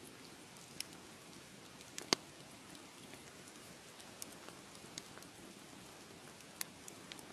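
Fire in a fireplace crackling: a soft steady hiss with scattered sharp pops, the loudest about two seconds in.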